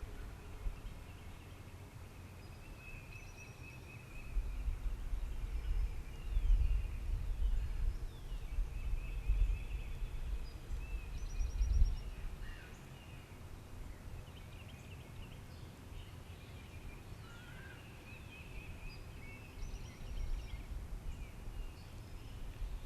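Small songbirds calling and trilling on and off in spring woodland, with no turkey gobbling. A low rumble rises over them from about four to twelve seconds in.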